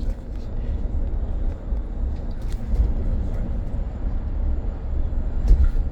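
Cabin noise aboard a BYD BD11 battery-electric bus on the move: a steady low rumble with a few brief rattles, and a faint high steady whine.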